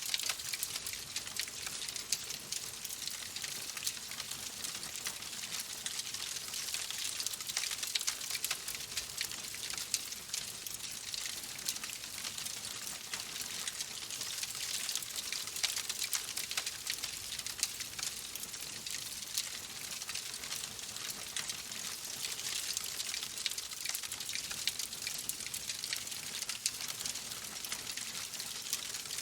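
Wood fire crackling in a fireplace: a steady hiss dotted with many small, quick pops.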